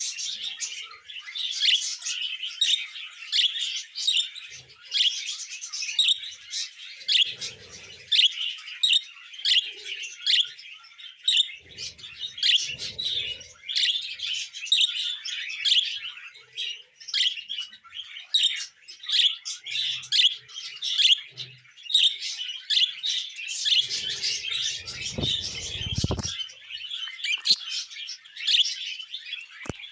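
Male budgerigar singing: a long, continuous run of quick chirps and chattering warble, with a few low thumps, the strongest about two-thirds of the way through.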